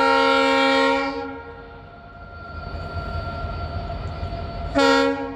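Train horn sounding a long steady blast that ends about a second in, followed by the low rumble of the train running, and a second short horn blast near the end.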